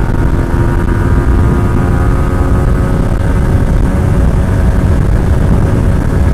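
Yamaha MT-15's 155 cc single-cylinder engine running hard in fourth gear, the bike accelerating toward its fourth-gear top speed of about 107 km/h.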